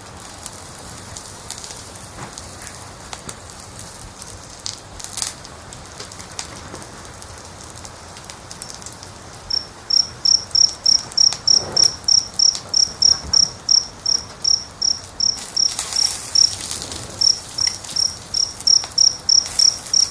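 Wood fire crackling softly with a few sharp pops. About halfway through, a cricket starts chirping steadily at one high pitch, about three to four chirps a second, with a brief pause, and these chirps stand out above the fire.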